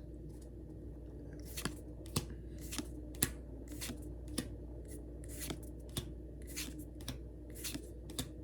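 Pokémon trading cards being flicked off a freshly opened pack one at a time: a short, crisp swish of card stock about twice a second, over a low steady hum.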